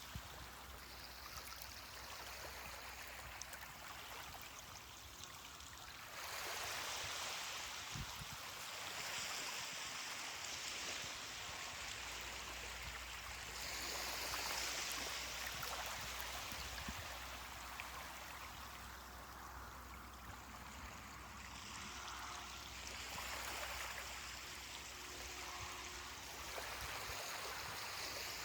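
Ocean waves washing onto a beach: a steady rush of surf that swells louder about every eight seconds as each wave comes in.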